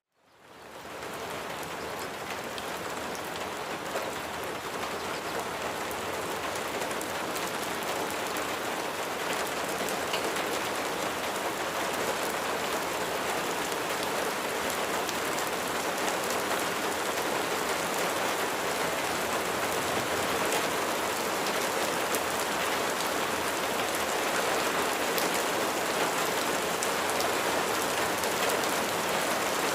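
Steady rainfall, an even hiss of drops, fading in from silence in the first second and then holding, slowly getting a little louder.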